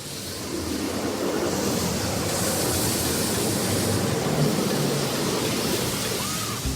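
High-pressure water jets of a touchless car wash spraying over a car, a rushing hiss that builds over the first couple of seconds and eases off near the end.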